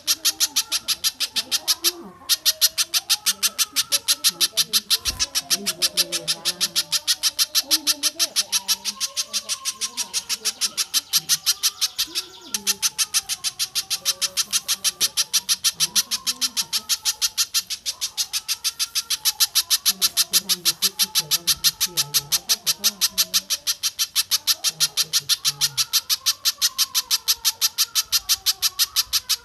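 Looped birdsong recording of spiderhunter and stork-billed kingfisher calls: a fast, steady run of sharp, high chips about five a second, with lower wavering calls underneath. The run breaks off briefly twice.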